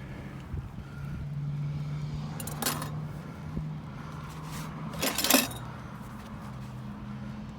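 A steady low motor hum, with two sharp metallic clinks about two and a half seconds apart, the second louder.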